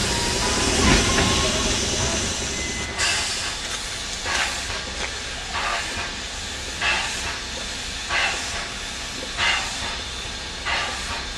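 L-class 2-10-0 steam locomotive letting off a steady hiss of steam, then puffing in a slow, even rhythm, one puff about every second and a quarter, as it works at low speed.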